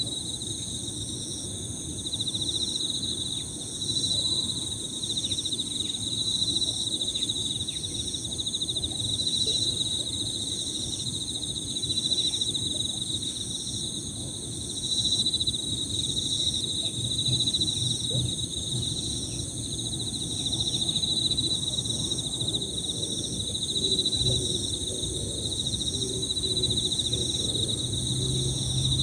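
A chorus of Emma field crickets trilling continuously and overlapping, with high insect song and a second pulsed insect call repeating about once a second, over a low rumble of background noise.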